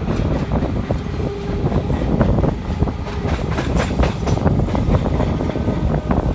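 Electric multiple-unit suburban train running, heard from on board: a steady low rumble with the wheels clattering over rail joints, the clicks coming thickest about three to four and a half seconds in.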